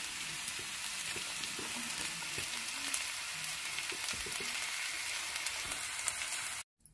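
Okra, tomato and coconut masala sizzling in a stainless steel kadai on the stove: a steady frying hiss with small pops, cutting off suddenly near the end.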